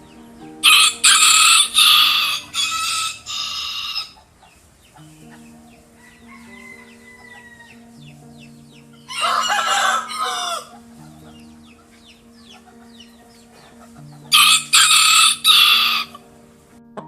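A rooster crowing three times, about a second in, midway and near the end, each a loud cock-a-doodle-doo in several parts, over soft background music of held notes.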